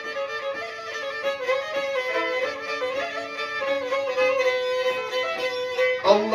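Black Sea kemençe, the three-string bowed fiddle, playing an instrumental passage between sung verses: a steady held note under a moving melody line. A man's singing voice comes in at the very end.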